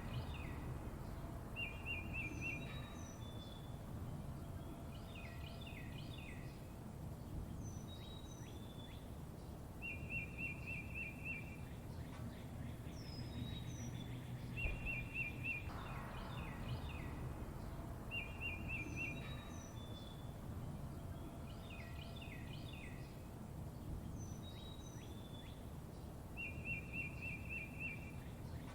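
Songbirds chirping: groups of quick rising and falling chirps, paired high notes and a short rapid trill repeat every few seconds in the same pattern, over a steady low background rumble.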